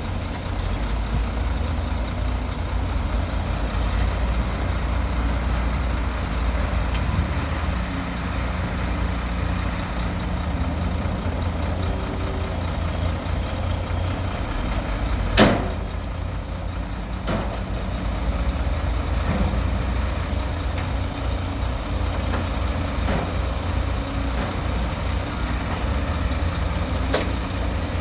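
Heavy diesel earthmoving machinery running steadily, with one sharp clank about fifteen seconds in and lighter knocks a couple of seconds later and near the end.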